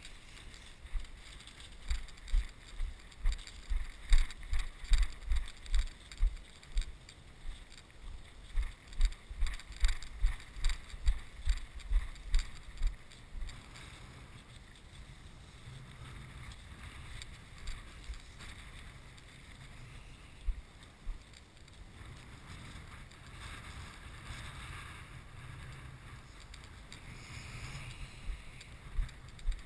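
Walking footsteps thudding onto the camera's mount about twice a second for the first dozen seconds, then a steadier rustle of wind on the microphone.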